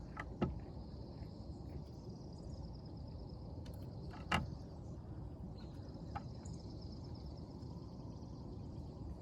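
Crickets trilling steadily over a low, even outdoor background rumble, with two short sharp knocks, one about half a second in and another about four seconds in.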